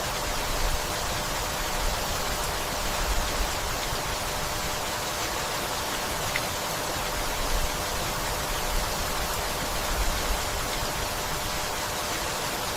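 Steady rainfall, an even hiss of rain with occasional separate drops and a faint low rumble.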